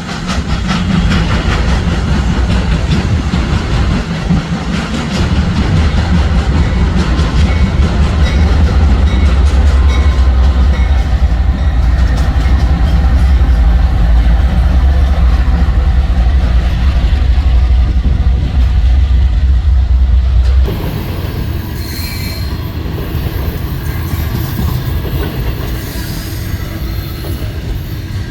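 Train passing close by, a loud, heavy low rumble of diesel locomotive and rolling cars with steady low engine tones. About 20 seconds in the sound drops suddenly to a quieter train sound.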